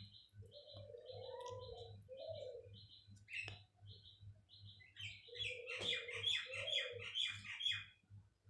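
Birds chirping in quick repeated short notes, thickening into a busier run of chirps in the second half, with two spells of lower calls underneath; fairly faint.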